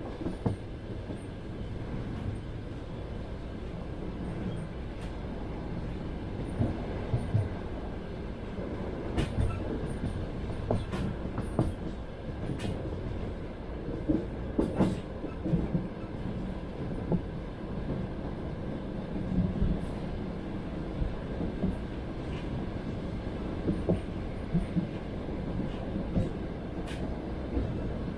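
Passenger train running along the rails, heard as a steady rumble of the carriage. Groups of sharper wheel clacks over rail joints come every few seconds.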